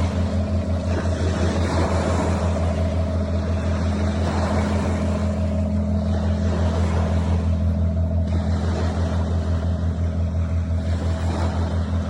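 A steady, low engine drone with a fast, even pulse, holding level throughout.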